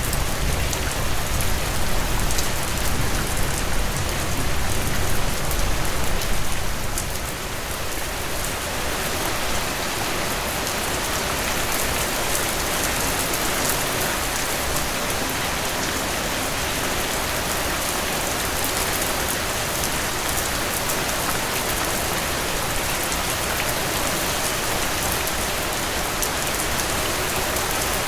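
Heavy rain falling steadily as a dense, even downpour. A low rumble under it in the first several seconds dies away about seven seconds in.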